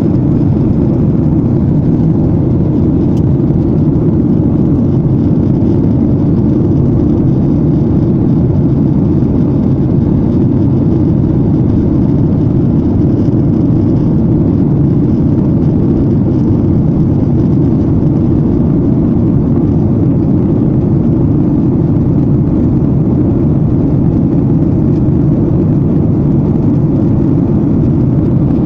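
Steady cabin noise of an airliner in flight: an even, low rush of engine and air noise that holds constant throughout.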